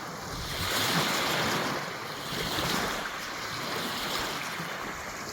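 Small lake waves washing onto a sandy shore, the wash swelling and falling back every couple of seconds.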